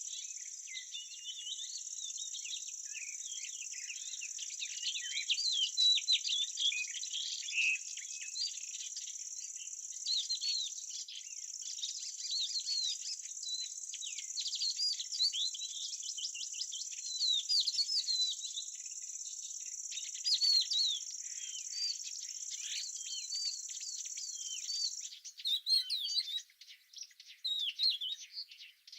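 Outdoor nature ambience: insects trilling steadily in a high continuous drone, with many small birds chirping rapidly over it. The insect trill cuts off about 25 seconds in, leaving the bird chirps.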